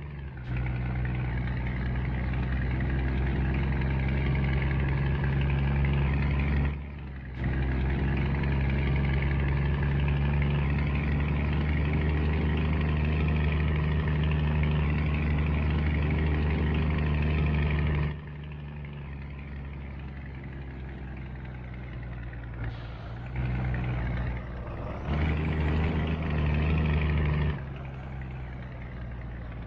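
Scania truck's diesel engine running steadily, with a brief drop in sound about seven seconds in. After about eighteen seconds it turns quieter, with a few short louder spells near the end.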